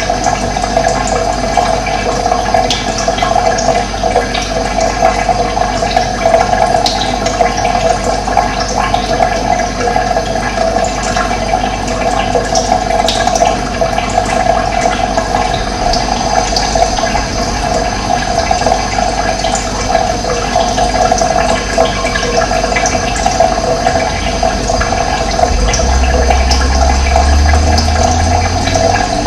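Running water flowing steadily, a dense even rush. A low hum joins near the end.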